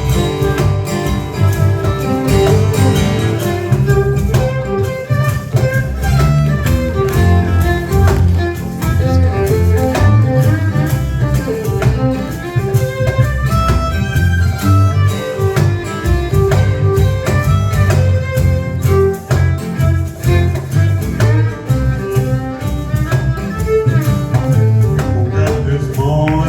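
Live fiddle solo over a band's reggae groove, with guitar and bass underneath.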